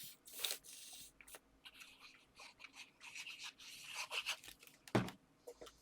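Paper and card pieces rustling and sliding as they are handled on a work surface, with one sharp knock about five seconds in.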